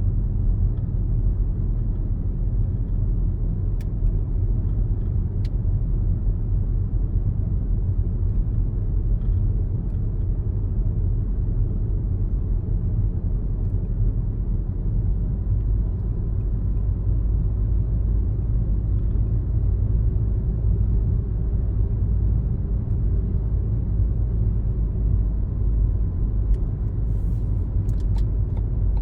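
Car driving along a road: a steady low rumble of engine and tyre noise, with a few faint clicks near the end.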